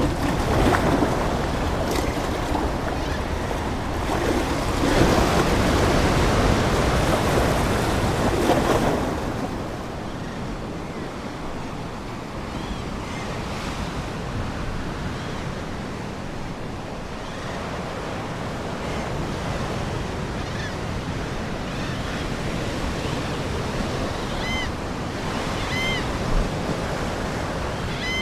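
Ocean waves washing on a shore, with a louder surge over the first nine seconds and then a steadier, softer wash. Seagulls call briefly now and then, several times near the end.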